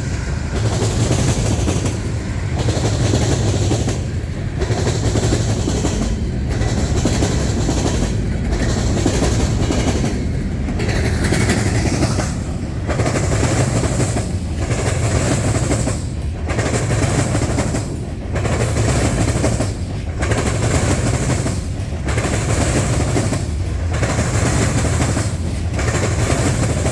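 A freight train's cars rolling past close by, the wheels clattering over the diamond crossing in a steady rhythm that repeats about every two seconds as each car goes over.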